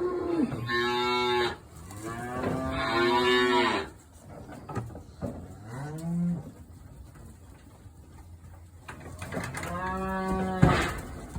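Cattle mooing repeatedly: about five long, drawn-out moos, one of them short and rising, with a sharp clank near the end.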